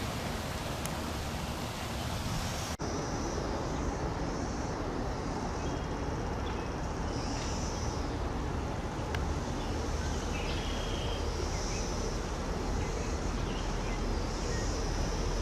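Outdoor ambience: a steady wash of noise with a low rumble underneath and short high-pitched chirps repeating every second or so. The sound briefly drops out about three seconds in.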